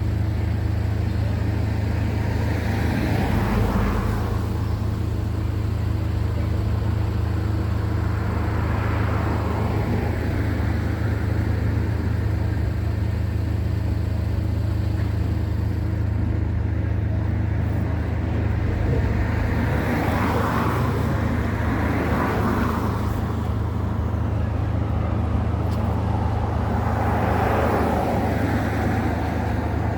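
Steady low drone of an engine running, with road traffic passing by about four times.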